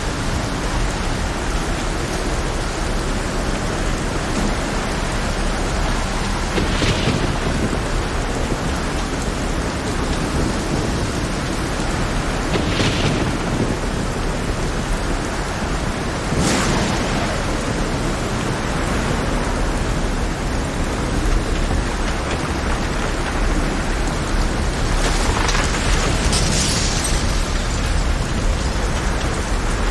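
Heavy rain over a rough sea: a steady rush of rain and surf, with four brief louder swells, the last and longest near the end.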